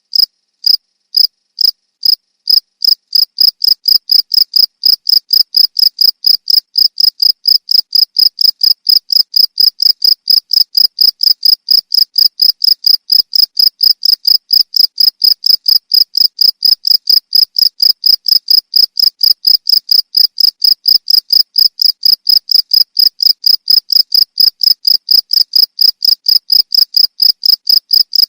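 Cricket chirping loudly: short, high chirps repeated in an even rhythm of about three a second, a little uneven in the first couple of seconds.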